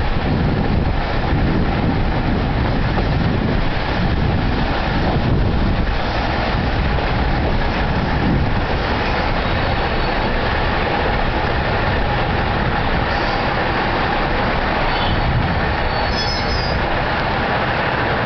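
Steady running noise inside a Kashii Line diesel railcar under way: engine and wheels on the rails. A brief high squeal comes near the end.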